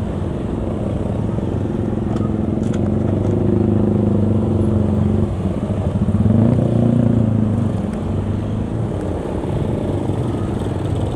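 A motorcycle's engine running on the move, its pitch and level rising around the middle as it speeds up, then easing back to a steady run.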